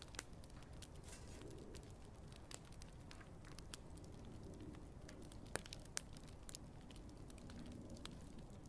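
Wood campfire burning and crackling faintly, with scattered small snaps and two sharper pops a little past the middle.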